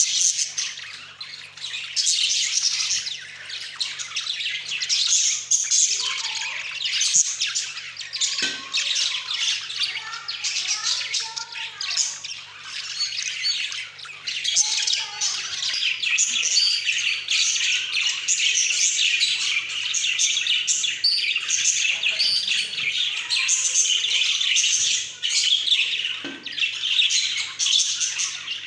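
A group of pet budgerigars chirping and chattering without pause, with squawks and lower warbling notes mixed in.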